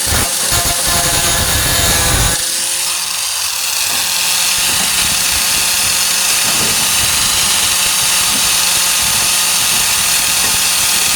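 Angle grinder running against rusted tailgate sheet steel: a steady, loud, high hiss over the motor's even hum. Rougher, lower chatter settles a little over two seconds in.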